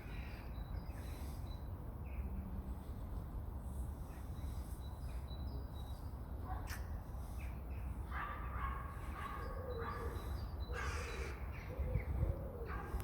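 A single sharp click near the middle, then a run of short, harsh animal calls from a little over halfway through, repeating to the end.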